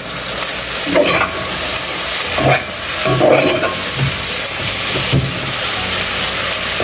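Sliced onions, peppers and spices frying in hot oil in a pot, sizzling steadily, while a metal spoon stirs them and scrapes and knocks against the pot several times.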